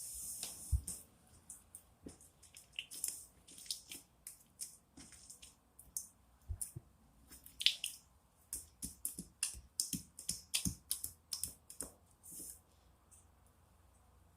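Homemade soap-and-lotion slime being squished and poked by hand, giving irregular quick sticky clicks and pops. They come thickest in a run a little past the middle.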